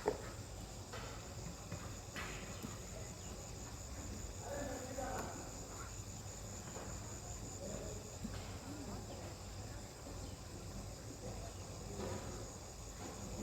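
Steady high-pitched insect buzzing, like crickets, with a few faint rough calls lower down about five seconds in and again near the end.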